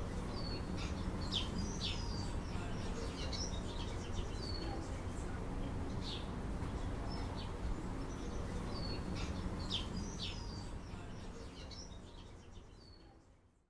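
Small birds chirping in short, repeated calls over a steady low outdoor background noise, the whole fading out near the end.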